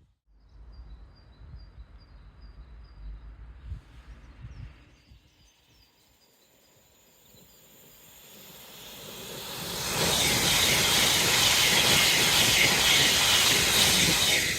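A train on the East Coast Main Line approaching, its noise building steadily over several seconds, then passing at speed as a loud, even rush of wheel and air noise. Before it arrives, a small bird chirps repeatedly over a low rumble.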